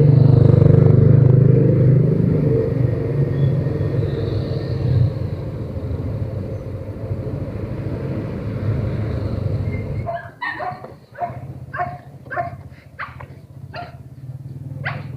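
Motorcycle engine running at a steady idle, then cut off about two-thirds of the way through. A dog then barks repeatedly, about eight short barks.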